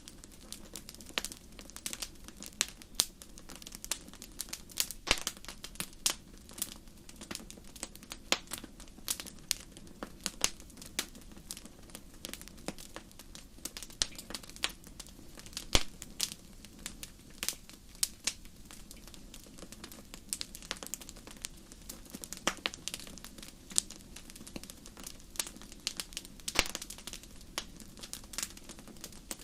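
Wood fire crackling in a fireplace: many sharp, irregular pops and snaps over a low, steady rush of flame.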